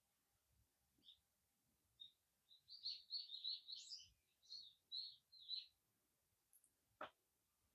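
A small wild songbird giving a quick twittering run of high chirps for about four seconds. A single sharp click follows near the end.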